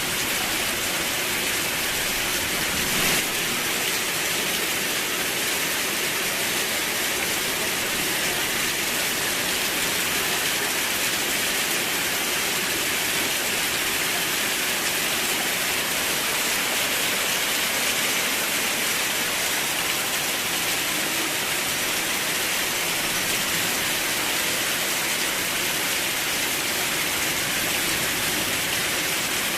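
Steady rain falling, an even hiss, with one brief sharper tap about three seconds in.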